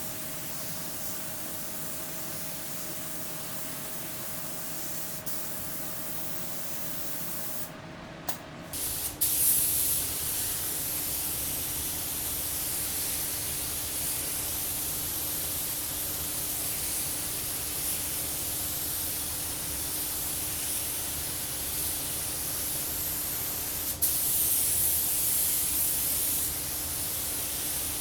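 Air spray gun hissing steadily as base coat is laid on in light mist coats, with a faint steady tone underneath. After a short break about eight seconds in, the hiss comes back louder, swelling again for a couple of seconds near the end.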